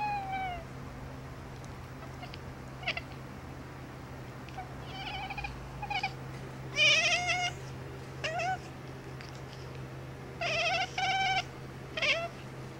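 Cat meowing in a run of about eight short calls, some dropping in pitch at the end, the loudest a little past the middle.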